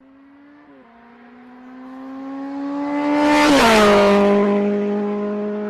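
A motor vehicle passing by: the engine's hum grows steadily louder, its pitch drops sharply as it goes past about three and a half seconds in, and it then carries on at the lower pitch.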